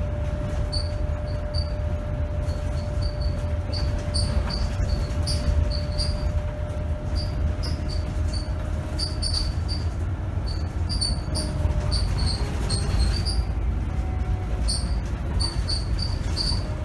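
Scania K270 city bus on the move, heard from on board: a steady low rumble of engine and road, with a thin steady whine that fades about halfway. Many small, irregular high squeaks and rattles come from the bus's body and fittings throughout.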